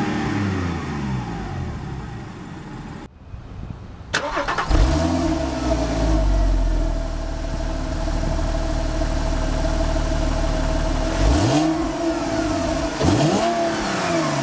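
2012 Porsche 911 Black Edition's flat-six engine, revved and dropping back toward idle from inside the cabin. Then, heard from behind at the exhaust tips, it idles steadily with a quick rev about five seconds in and two more near the end.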